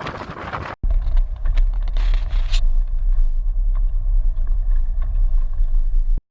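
A loud, steady deep rumble that starts abruptly about a second in and stops abruptly near the end, with a hiss over it for its first couple of seconds.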